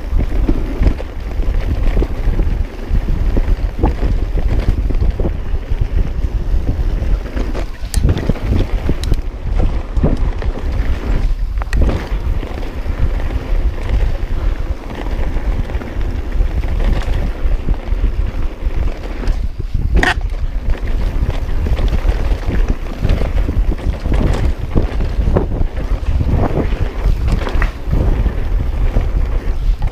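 Wind rumbling on a mountain biker's camera microphone, mixed with the bike rattling and knocking over rough trail, with a sharper knock about twenty seconds in.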